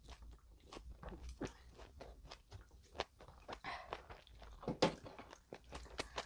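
Quiet chewing and wet mouth clicks of someone eating bread, with a few sharper clicks in the middle.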